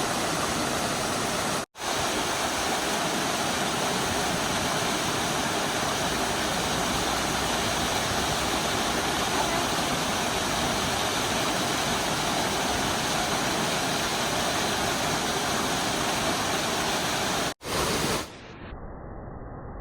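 A waterfall on a rocky mountain stream: steady, loud rushing water, with two brief drop-outs. Near the end it gives way to a quieter, muffled hiss.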